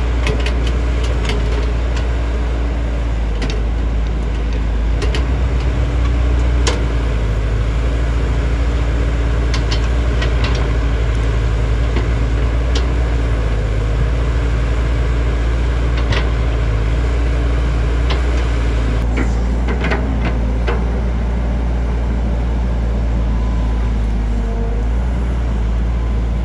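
JCB JS205 excavator's diesel engine running steadily, with scattered sharp clicks and knocks.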